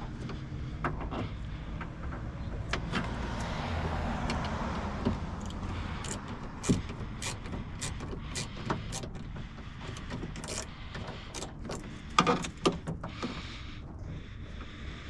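Socket wrench on an extension working a long bolt loose inside a car door: scattered metal clicks and knocks over a low background hum, with a louder cluster of clicks about twelve seconds in.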